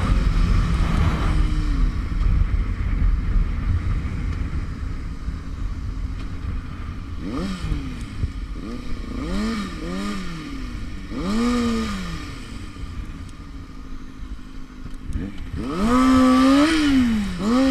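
Motorcycle engine revving up and down in a series of short throttle blips, over a low wind rumble.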